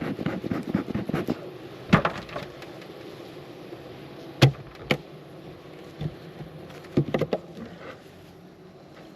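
Wooden beehive super being pried loose and lifted off the hive: a rapid crackling for about the first second, then several sharp wooden knocks and clunks spaced a second or so apart, over a faint steady buzz of honeybees.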